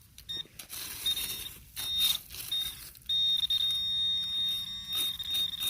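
Handheld metal-detecting pinpointer sounding a high, thin beep, first in short broken beeps, then held as one continuous tone from about three seconds in as it closes on a shallow buried coin. A few short knocks or scrapes come in between.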